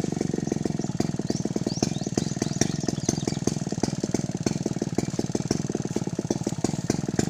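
Two-stroke chainsaw with CDI ignition idling steadily, its firing making a fast, even beat; the owner calls the sound very annoying.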